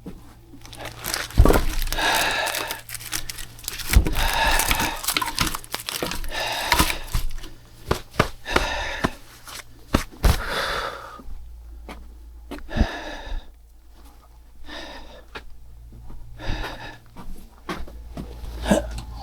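Paper being crumpled and torn, with irregular sharp knocks, while a fire is laid and lit in a wood-fired boiler.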